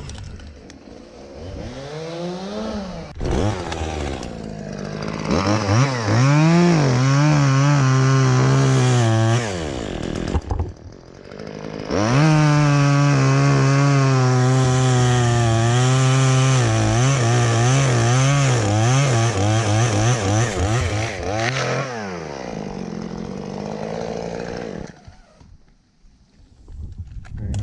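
Chainsaw revving up and cutting wood in two long runs, about four seconds and then about nine seconds, dropping back between them. Near the end it eases off to idle and goes nearly quiet, then revs again.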